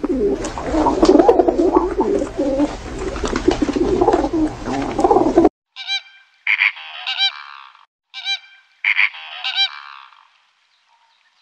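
A dense chorus of overlapping bird calls from a flock, which cuts off abruptly, followed by flamingos honking: several pitched, nasal calls in two short runs.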